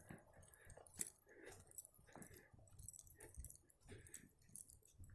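Faint footsteps on the forest floor, soft crunching and rustling of leaf litter and twigs with small scattered crackles.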